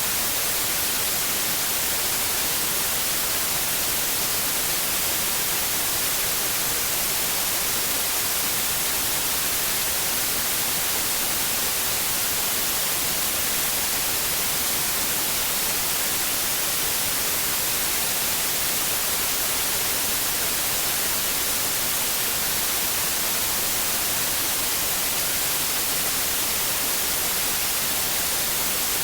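Steady white noise: an even hiss with no changes, brightest in the high end.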